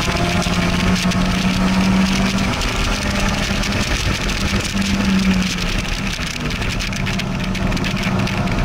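A car engine pulling hard at track speed and then easing off in the second half, heard from the open cockpit of a convertible with the top down, with wind rushing past throughout.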